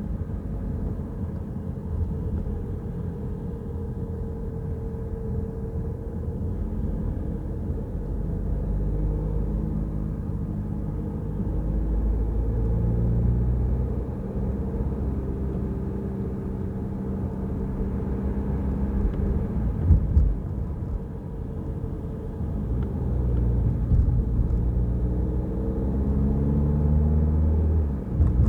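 Peugeot Rifter on the move: steady engine and road rumble, the engine's pitch climbing and dropping several times as it speeds up and changes gear. Two or three short knocks stand out, around two-thirds of the way through.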